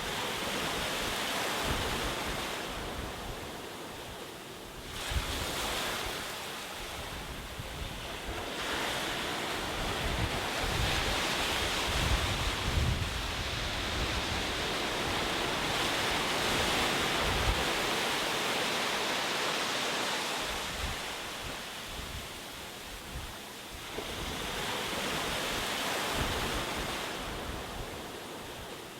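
Ocean waves breaking and washing on a shore, the surf swelling and fading every few seconds with a low rumble under the hiss of the water.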